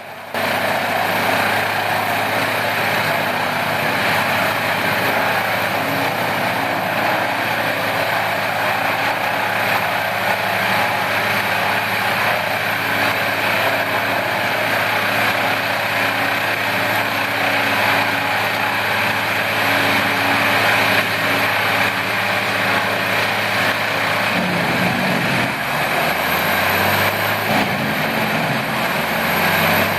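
A Morbark 30/36 whole tree chipper running at work, its engine and chipping drum making a loud, steady mechanical din. About 25 seconds in the engine note shifts and wavers as the load changes.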